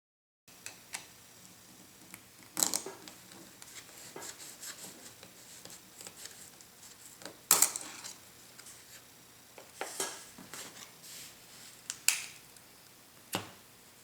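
Scattered small metal clicks and clinks, about seven in all and the loudest about seven and a half seconds in, as the retaining clips and grease shields are worked off steel ball bearings.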